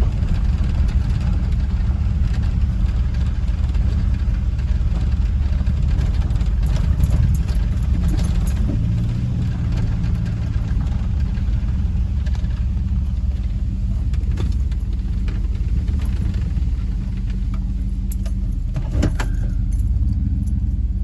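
A car driving slowly, with its engine and road noise heard inside the cabin as a steady low rumble. A few sharp clicks come through, the last near the end.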